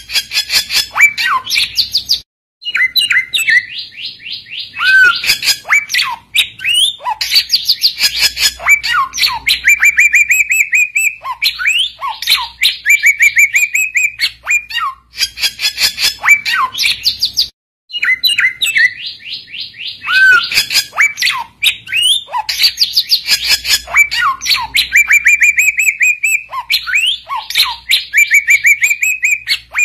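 Samyong bird singing loudly and without pause in rapid chattering trills and whistled notes. Two brief breaks occur, about two seconds in and about seventeen seconds in, and the same song phrase sequence repeats. This is the full 'gacor' song of a samyong calling a rival.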